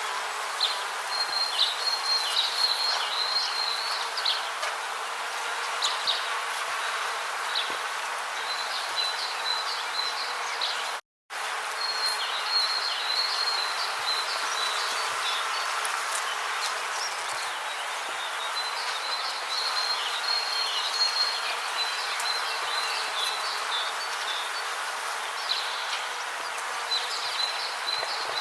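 Rainforest insect chorus: a steady hiss with short runs of high, chirping trills that come back every few seconds. The sound cuts out completely for a split second about eleven seconds in.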